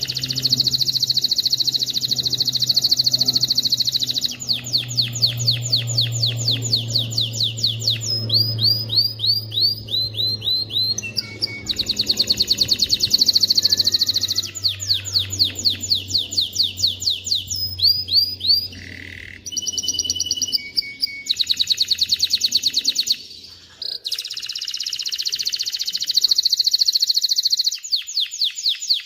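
Male domestic canary singing: a continuous run of rapid trills, each tour of fast repeated notes held for a second or two before switching to another, with a short break near the end.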